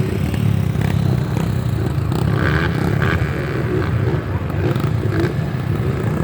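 Dirt bike engine running, its pitch wavering up and down slightly.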